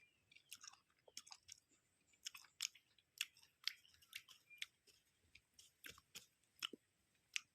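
A person chewing food close to the microphone, mukbang style: faint, irregular short crunches and mouth clicks, two or three a second.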